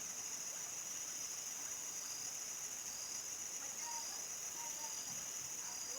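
A chorus of crickets chirping steadily in a continuous high-pitched drone, with a few faint short calls underneath about four and five seconds in.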